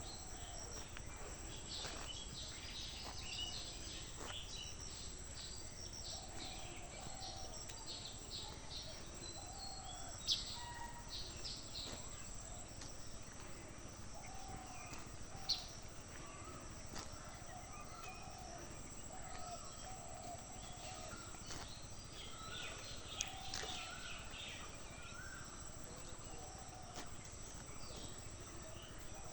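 Rural outdoor ambience: a steady high-pitched insect drone, with birds chirping in many short high calls, three of them sharp and louder than the rest. Under these runs a lower call repeated roughly once a second.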